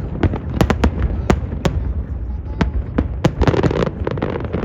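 Aerial fireworks bursting: a rapid, irregular string of sharp bangs over a continuous low rumble, with a stretch of dense crackling about three and a half seconds in.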